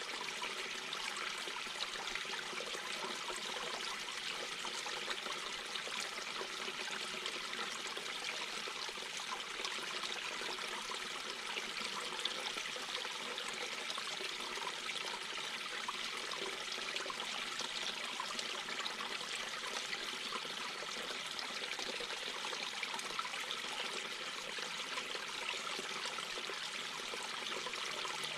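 Mountain brook babbling over stones: steady, even water noise full of small splashes and trickles.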